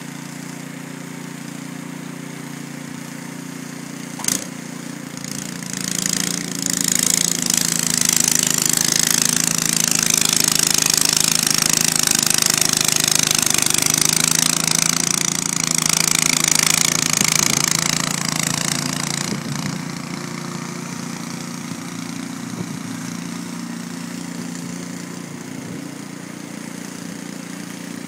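MTD 26-inch two-stage snowblower engine running steadily. From about five seconds in, a loud rushing hiss builds over the engine as the machine chews through and throws snow, easing off about nineteen seconds in; a single sharp click comes just before the hiss starts.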